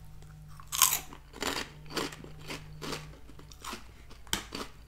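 A person biting into and chewing a crunchy Garden Veggie Straws snack: a sharp crunch about a second in, then a run of crunches about two a second.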